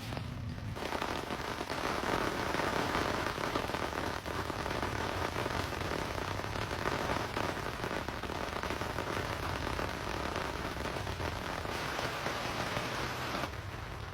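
Heavy rain drumming on a surface in a dense, even patter of drops over a steady low rumble. It starts about a second in and cuts off suddenly near the end.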